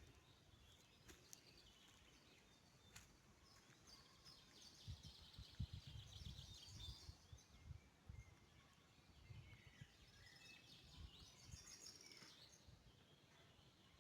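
Faint birdsong: small birds chirping and trilling in quick runs of notes, over quiet outdoor background noise with some soft low rumbles.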